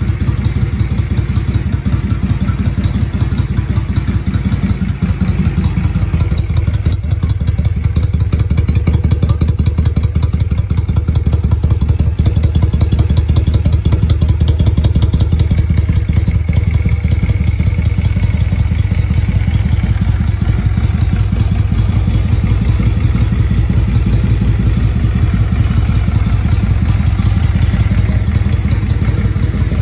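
Yamaha XV535 Virago's air-cooled V-twin running through an aftermarket Highway Hawk exhaust, a steady, loud, deep rapid pulsing of exhaust beats with a slight change in tone about five seconds in.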